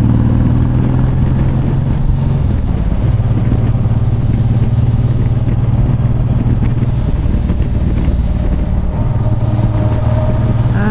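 Honda VTX1800's big V-twin engine running while the motorcycle rides along, with wind and road noise; the engine note dips and picks up again twice, as on a throttle change or gear shift.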